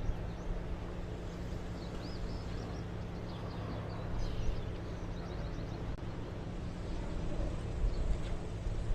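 Outdoor ambience: a steady low engine hum, with birds chirping in short runs a couple of times partway through.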